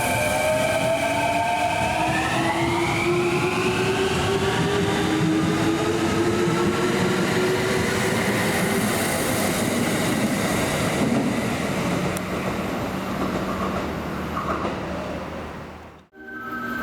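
Kintetsu electric commuter train pulling out of the station. Its traction motors whine in a stack of tones that rises in pitch from about two seconds in as it accelerates, over wheel-on-rail rumble. The sound fades and cuts off near the end.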